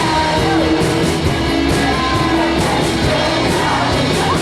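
Live rock band playing at full volume, with drums and cymbals, electric guitars, bass and keyboard, and a sung vocal line.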